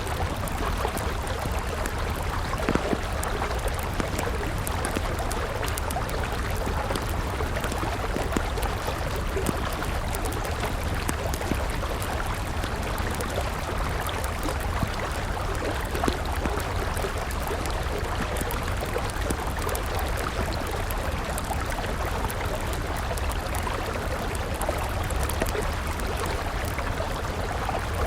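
A river flowing steadily, with a wood campfire crackling over it in small scattered pops; a couple of louder pops stand out, about three seconds in and about halfway through.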